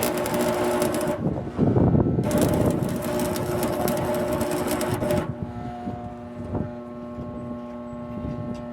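Electric arc welding: the arc crackling in two runs, about a second and then about three seconds long, over the steady hum of the welding machine.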